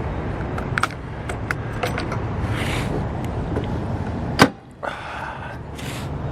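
Riding an e-bike: steady rumble of wind and road on the microphone, with scattered rattling clicks and one sharp knock about four and a half seconds in, after which the sound briefly drops away.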